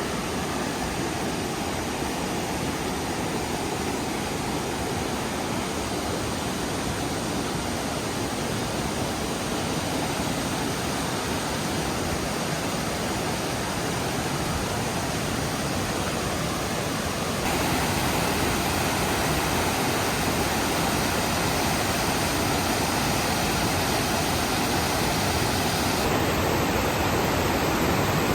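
Steady, even rushing noise that shifts abruptly and gets a little louder about two-thirds of the way in, and changes again near the end.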